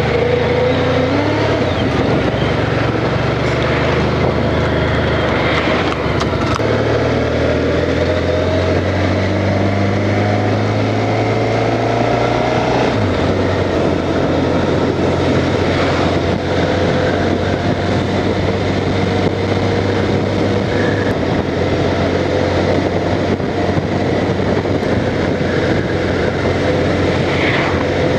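Honda Crosstourer's V4 engine under way, its note climbing and dropping at gear changes, notably about 13 seconds in, over a steady rush of wind and road noise.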